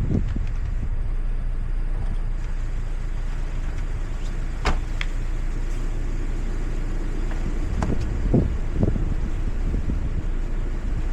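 Car driving, a steady low road and engine rumble with a sharp click near the middle and a few knocks near the end.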